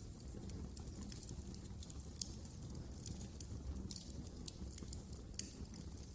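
Wood fire crackling: irregular sharp pops and snaps over a low, steady rumble of the flames, with a louder snap about two seconds in and another near the end.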